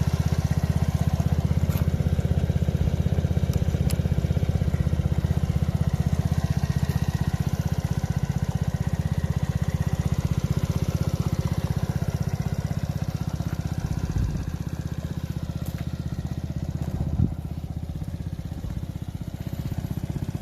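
Suzuki GSR125's single-cylinder four-stroke engine idling steadily through an aftermarket BEAMS exhaust muffler. It gets slightly quieter after a short knock about 17 seconds in.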